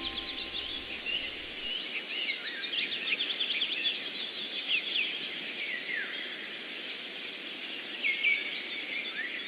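Many small birds chirping and twittering in quick, overlapping calls over a steady background hiss, with a few held low tones dying away in the first second or two.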